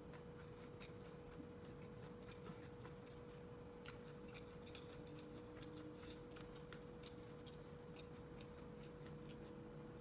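Faint, irregular small clicks of someone chewing a mouthful of corn-on-the-cob kernels, over a steady hum.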